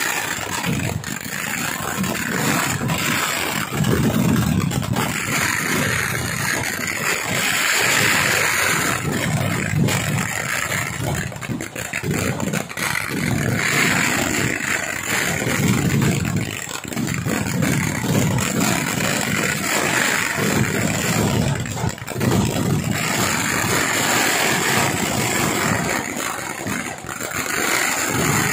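Kerala temple fireworks barrage: aerial shells bursting in rapid succession, the dense bangs and crackles merging into a continuous rumble that swells and eases every few seconds.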